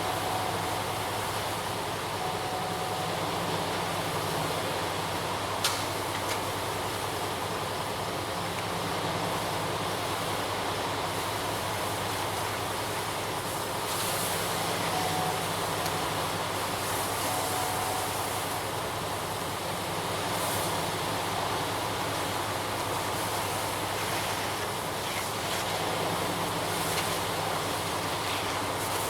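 Ready-mix concrete truck's diesel engine running steadily with a constant low hum, with a single sharp click about six seconds in.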